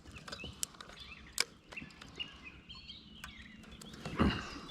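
A few sharp clicks and knocks, the loudest about 1.4 seconds in, over birds chirping in the background.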